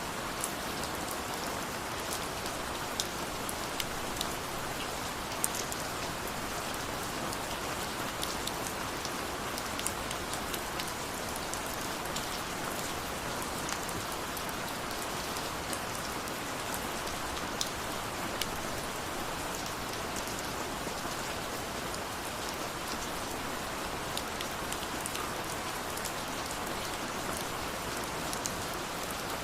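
Steady heavy rain falling, a dense even hiss with individual drops ticking sharply on a surface here and there.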